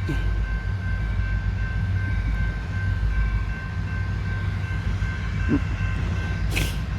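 Empty coal train running, its diesel locomotives giving a steady low rumble with a faint steady high tone over it. A brief sharp noise comes near the end.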